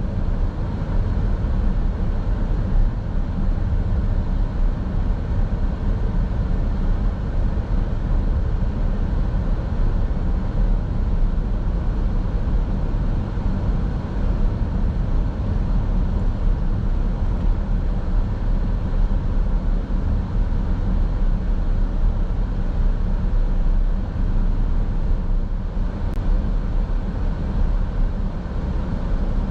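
A car driving: a steady low rumble of road and engine noise that stays even throughout.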